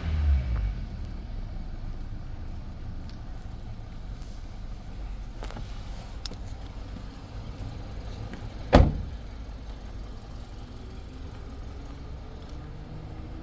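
Kia Optima 2.4-litre G4KJ four-cylinder petrol engine idling steadily, the tail of a brief rev dying away in the first half-second. A single loud thump, the loudest sound, comes a little before two-thirds of the way through.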